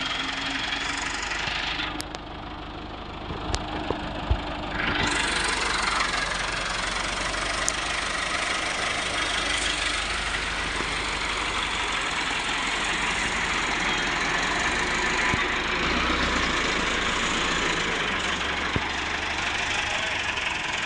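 Tractor engine running steadily. It drops back briefly with a few sharp knocks about three to four seconds in, then runs fuller and louder from about five seconds in.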